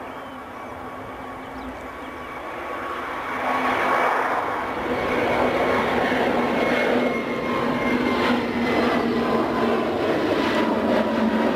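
Jet airliner's engines passing near the runway: a rushing roar that swells sharply about three and a half seconds in and stays loud, with steady whining tones that sink slightly in pitch as it goes by.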